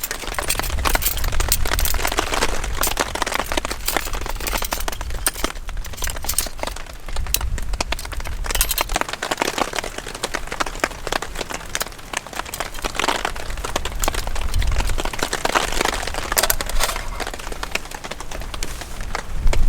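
Gusty strong wind buffeting the microphone in low rumbles that swell and fade, with a steady hiss and many irregular crackling clicks throughout.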